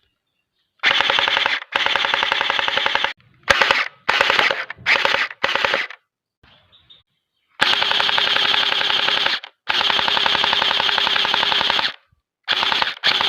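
ARP9 gel blaster firing full-auto bursts, its electric gearbox cycling as a rapid, evenly clicking rattle. About nine bursts, from a quick tap to about two seconds long, with short silences between them.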